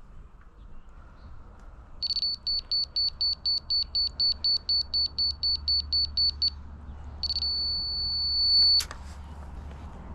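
High-pitched electronic beeping from a laser-level grade receiver: rapid beeps about five a second for several seconds, then after a short gap a solid tone for about a second and a half, the receiver's signal that it is on grade. A low engine hum runs underneath.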